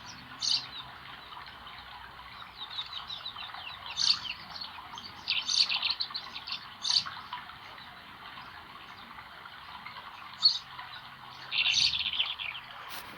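Small songbirds chirping in short scattered bursts, with a couple of fast rattling trills, over the steady rush of flowing spring water.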